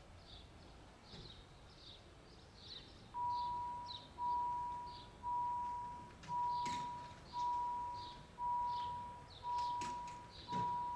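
Railroad level-crossing warning bell starting up about three seconds in, a single clear tone struck about once a second, each stroke fading away; it signals an approaching train. Small birds chirp throughout.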